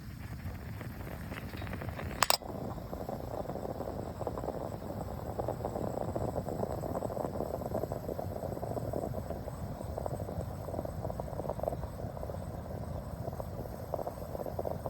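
Portable gas stove: a sharp igniter click about two seconds in, then the burner running with a steady, rushing, crackling noise.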